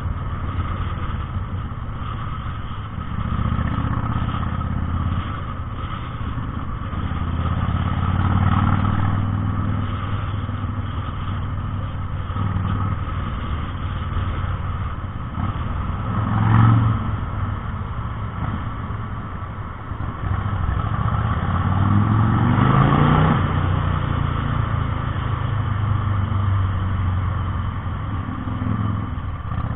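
Harley-Davidson Sportster 883R's air-cooled V-twin running at low road speed, revving up briefly about halfway through and again in a longer rise a few seconds later.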